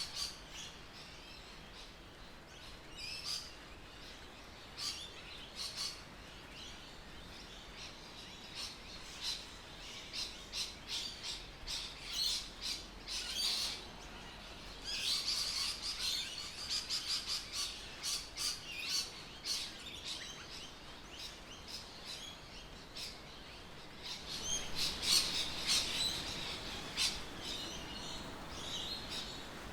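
Birds chirping and calling: many short high notes in bouts, busiest in the middle and again near the end.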